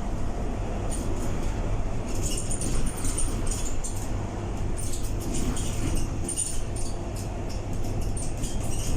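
Scania K230UB single-deck bus heard from on board while driving: a steady low engine and drivetrain hum, with frequent short rattles and squeaks from the body and interior fittings.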